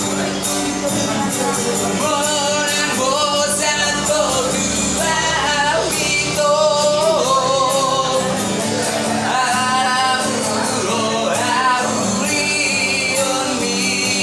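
A street busker singing a song, holding long notes with a wavering vibrato over a steady instrumental accompaniment.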